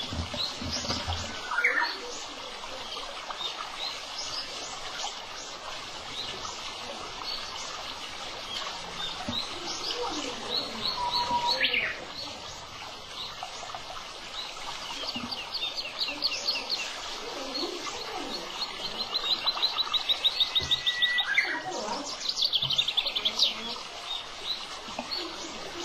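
Several wild birds singing and chirping, with short calls throughout. About three-quarters of the way in there is a fast trill of rapid repeated notes, followed by a quick run of falling notes.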